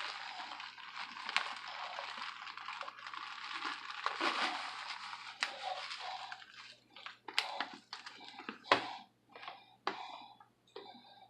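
Cheese being sprinkled over the top layer of a lasagna: a steady rustle for about six seconds, then breaking up into short separate rustles and light taps.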